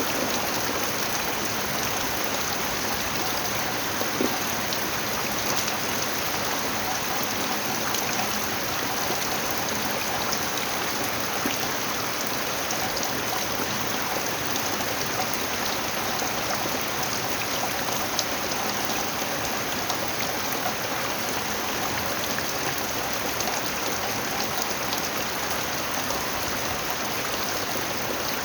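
Steady rain falling, a dense even hiss with scattered drop impacts.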